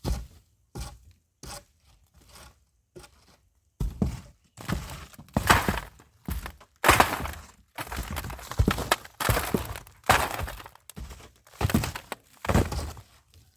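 Hammer blows breaking up the masonry of a pit latrine: irregular heavy strikes about once a second, several trailing into crumbling and falling rubble.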